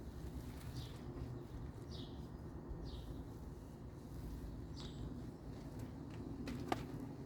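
Short, downward-slurred bird chirps, one every second or two, over a steady low rumble. A sharp click comes near the end.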